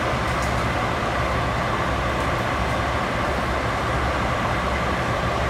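Container freight train rolling steadily past: the continuous rumble of the wagons' wheels on the rails.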